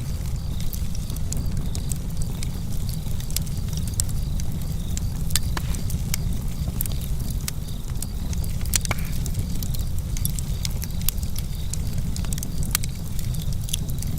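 Campfire crackling: frequent small, irregular snaps and pops over a steady low rumble.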